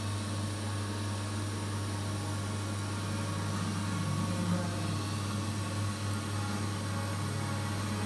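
Welding machine humming steadily, with a hiss over it.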